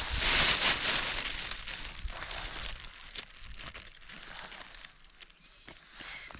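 Close rustling and crinkling, loudest for the first second and a half, then fainter with scattered clicks.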